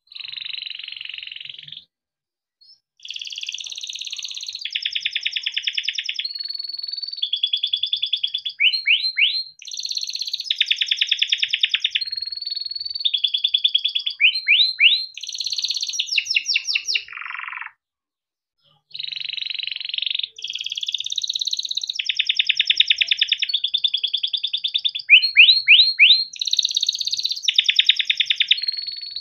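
Yellow domestic canary singing a long song of rolling trills, fast up-sweeping notes and held whistles, phrase after phrase. It breaks off briefly twice, once after a note that slides down near the middle.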